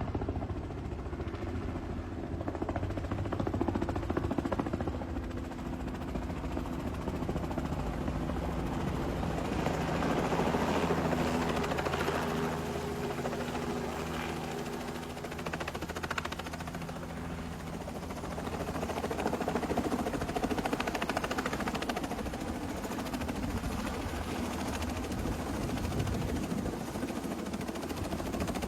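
Helicopter running steadily overhead, the rotor's chop and engine drone continuous, swelling louder for a few seconds about ten seconds in.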